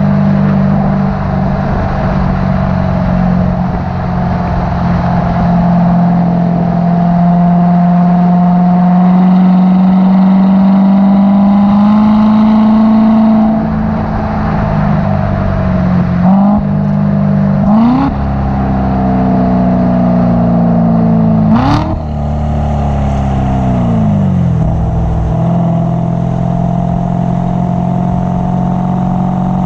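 2016 Corvette Z06's supercharged 6.2-litre V8 running steadily under way. Past the middle, the revs climb in three quick, short bursts, with a sharp click among them, then fall away before the engine settles back to a steady note.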